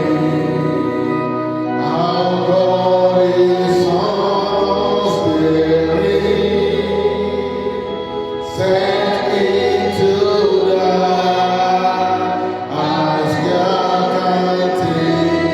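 A choir singing gospel music in long held phrases that break off and start again every few seconds, over a steady instrumental backing.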